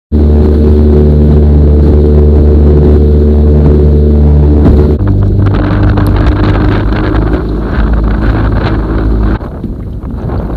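Boat motor running steadily and loudly. About five seconds in its sound shifts to a lower, rougher hum, and it drops in level near the end, with wind on the microphone.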